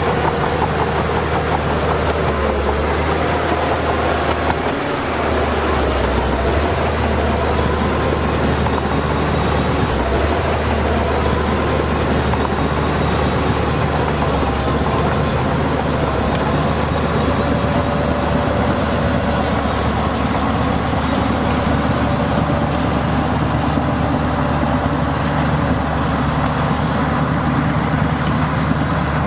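Heavy diesel earthmoving machinery, a bulldozer and dump trucks, running steadily under load, with the engine note rising and falling slightly.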